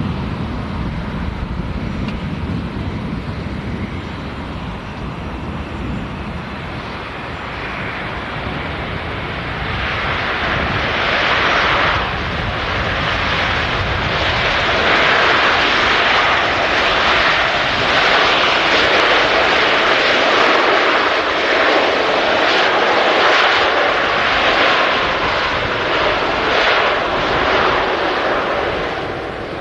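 Jet airliner on landing approach passing overhead: a low rumble at first, then the engine roar builds about a third of the way in, stays loud through most of the rest and eases off near the end.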